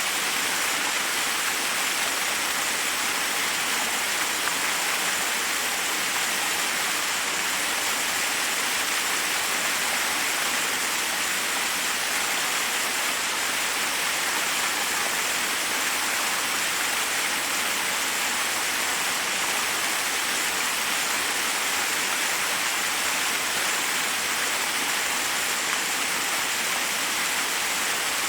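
Forest waterfall: water cascading over rocks in a steady, even rush.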